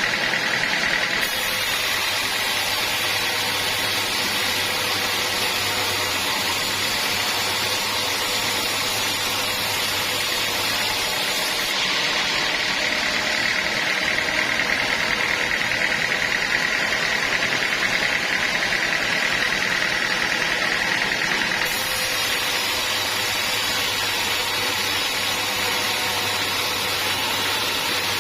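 Sawmill machinery running steadily: a constant mechanical drone with a high whine, the whine stronger between about 12 and 22 seconds in.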